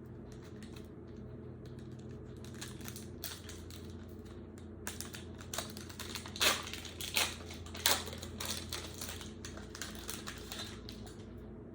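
Upper Deck basketball trading cards being handled and flipped through, a run of light clicks and snaps that grows busier and louder about halfway through. A steady low hum lies under it.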